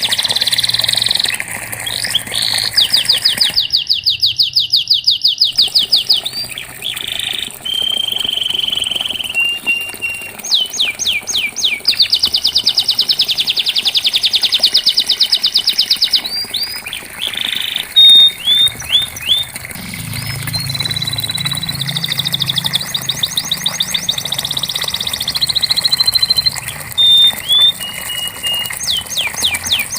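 Domestic canary singing a long song of fast rolling trills, each held for several seconds, broken by short whistled notes and quick chips.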